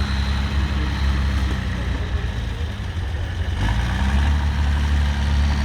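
Trial truck's engine running at low revs, easing off around the middle and then picking up again.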